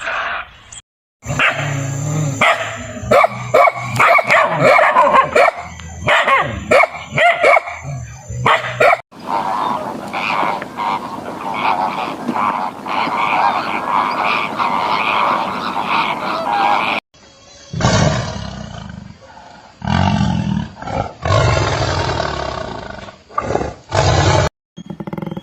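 Animal calls in a sequence of separate clips, with abrupt cuts about a second, nine seconds and seventeen seconds in. The middle clip is a dense, continuous mass of many overlapping calls.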